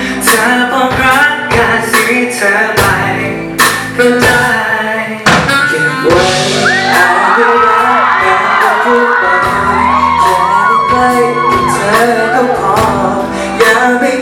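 Loud live pop band music with a regular drum beat, played over a concert sound system. Through the middle, a crowd of fans screams in high, wavering voices over the music.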